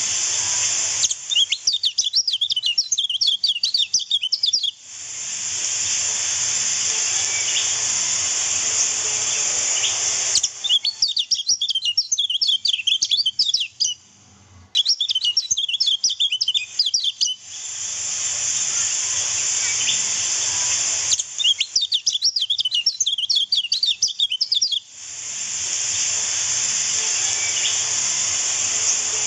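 Lemon-bellied white-eye (kecial kuning) song: rapid, high twittering in four bursts of three to four seconds each. Between the bursts are stretches of steady rushing river-water noise, and the two switch abruptly back and forth.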